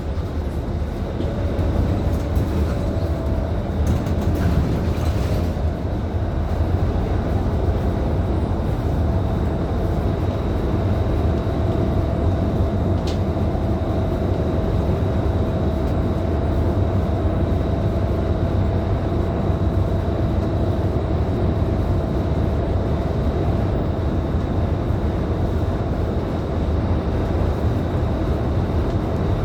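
Scania K310IB city bus under way, its rear-mounted diesel engine giving a steady low drone with road and tyre rumble, heard from inside the bus, with a faint steady whine above it and a few light rattles in the first few seconds.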